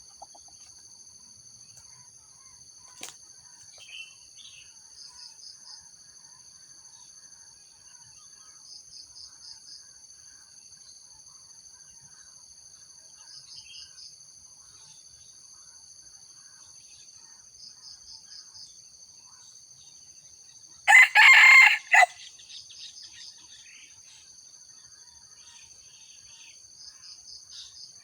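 A junglefowl rooster crows once, a short loud crow about three quarters of the way through. Behind it, insects keep up a steady high whine, with short pulsing trills that repeat roughly every four seconds.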